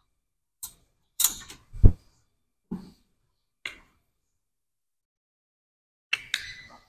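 Gym equipment being handled while a leg machine is set up: a handful of separate knocks and clicks, the heaviest a low thud about two seconds in, then a short clatter near the end.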